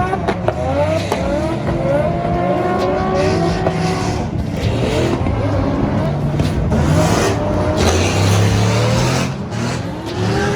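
Drift car's engine revving hard, its pitch climbing again and again in quick runs, followed by a swell of tyre noise as the car slides.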